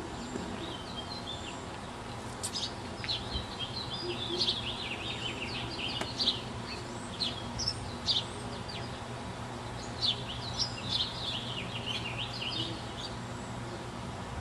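Songbirds chirping: quick runs of short, high, sweeping notes, pausing briefly now and then, over a faint steady low hum.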